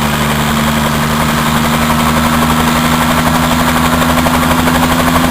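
An engine running steadily at a raised, even speed, loud and unchanging in pitch.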